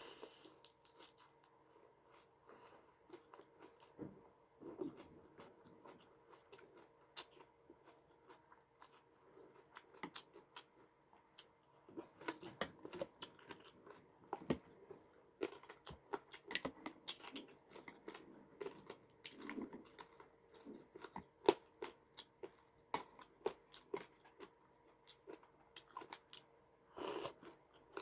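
A person chewing and crunching food close to the microphone, many small crisp clicks and crackles with a louder crunch near the end, over a faint steady hum.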